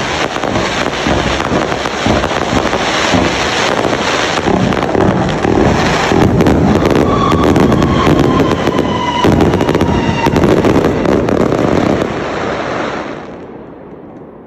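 Fireworks display cake firing a rapid barrage of shots and crackling bursts, densest in the middle with a faint falling whistle, then stopping about thirteen seconds in as the echo dies away.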